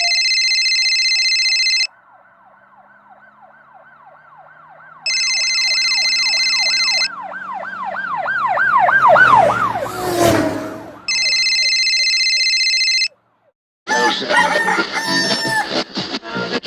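A library sound effect of an emergency-vehicle siren in fast yelp mode passing by: it grows louder, then drops in pitch with a whoosh as it goes past about ten seconds in. A steady electronic beeping tone cuts in three times for about two seconds each, and a busy, clattering mix of sounds starts near the end.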